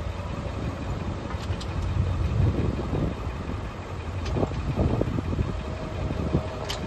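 Vehicle on the road: steady low engine and road rumble with scattered clicks and rattles.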